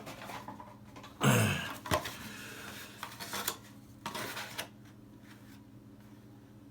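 A few light clicks and a short clattering rattle of hard objects being handled, with a brief falling vocal sound about a second in.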